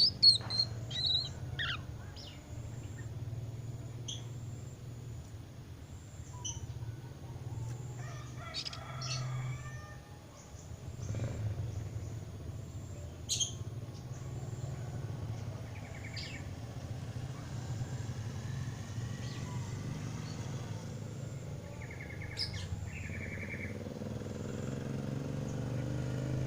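Young Oriental magpie-robin (kacer) practising its subsong: scattered soft chirps and short twitters, a quick run of them in the first couple of seconds, then sparse single notes. A steady low hum lies underneath.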